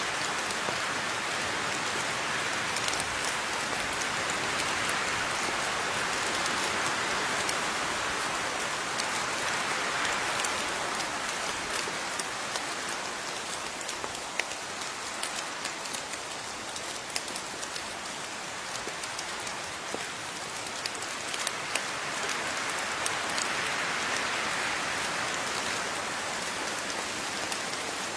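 Steady rain falling, with many distinct drops ticking against a surface over the even hiss of the downpour.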